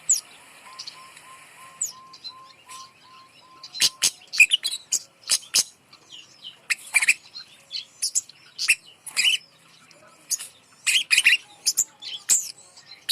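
Kemade (flowerpecker) calling: a run of sharp, high, thin chips and ticks in quick irregular clusters. Early on, a row of about ten soft, evenly spaced low notes plays under it.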